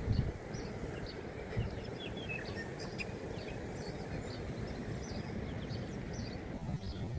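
Small birds chirping, many short calls in quick succession, over a steady low rumble of outdoor background noise.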